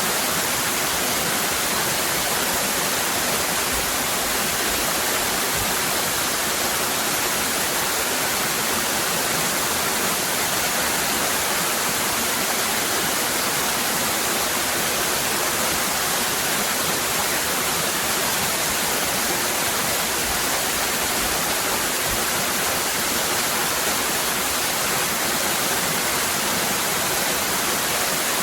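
Waterfall cascading: a steady, even rush of falling water, unchanging throughout.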